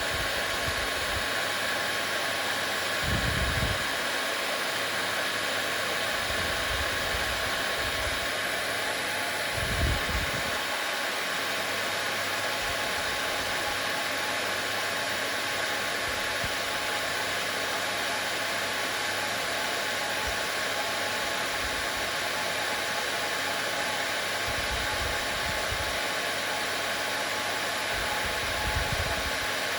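Hair dryer running steadily: an even rush of air with a constant motor whine. A few brief low thumps come about three seconds in, ten seconds in and near the end.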